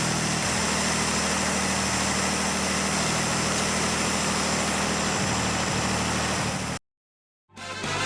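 1935 SS1 Tourer's overhead-valve engine idling steadily. It cuts off abruptly near the end, and music begins.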